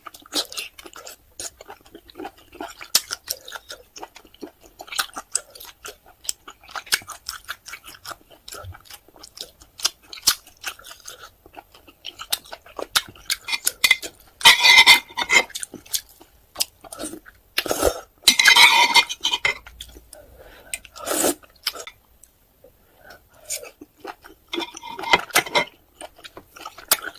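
Close-miked eating sounds: chewing of octopus and spicy noodles, with utensils clicking and clinking against a dish. Louder noisy bursts come about halfway through and again near the end.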